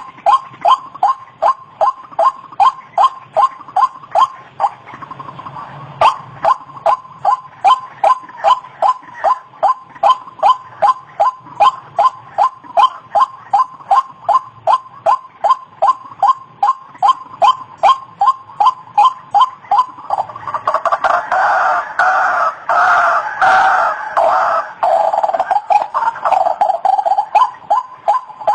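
White-breasted waterhen calling: a steady run of short, sharp notes about two a second, breaking off briefly about five seconds in. Past the twenty-second mark the calling swells into a louder, denser chatter for several seconds before the steady notes return.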